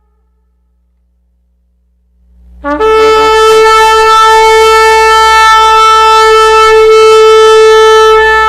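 Shofar blown in one long blast after a couple of seconds of silence. It starts on a brief low note, breaks up to a higher one and holds it steady and loud.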